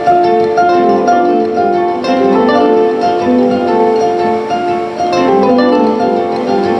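Live solo instrumental music: a plucked string instrument playing a dense, continuous stream of short overlapping notes.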